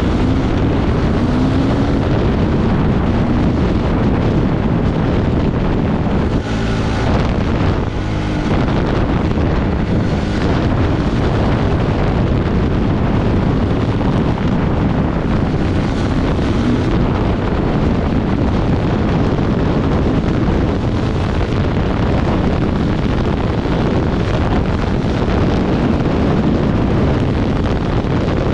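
Off-road motorcycle running at speed under heavy wind rush on the microphone. The engine's pitch shows through the wind briefly about a quarter of the way in.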